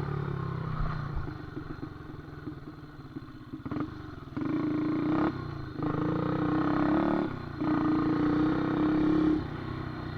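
Motorcycle engine running low for the first few seconds, then revving up three times in spells of a second or two each.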